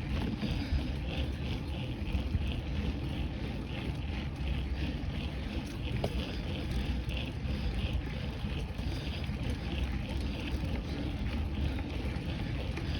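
Wind rumbling over a phone's microphone while riding a bicycle, with a faint rhythmic hiss repeating about twice a second.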